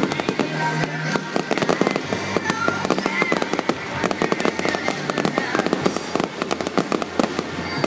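Fireworks going off in rapid succession, a dense run of crackles and bangs with short whistles, over loud music played for the display.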